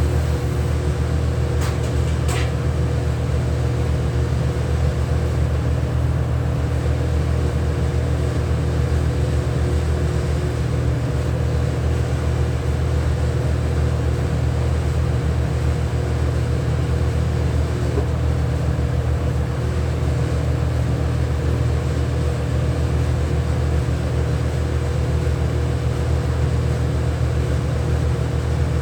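Steady low machine hum with several constant tones, unchanging throughout, with a couple of brief sharp clicks about two seconds in.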